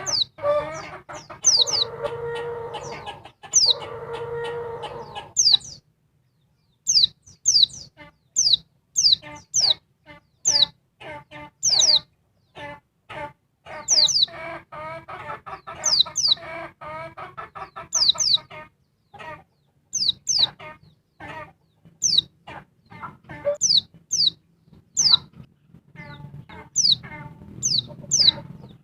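Female pleci (white-eye) calling: a rapid series of sharp, high chips, each sweeping downward, repeated a few times a second with a brief pause about six seconds in. Lower, drawn-out calls from another bird come in under it twice.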